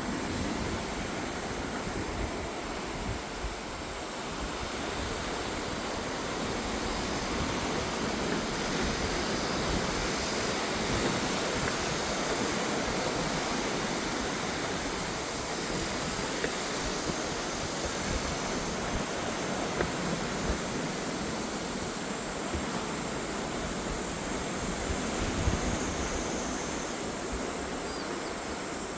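Sea surf washing steadily against the shore, with wind gusting across the microphone.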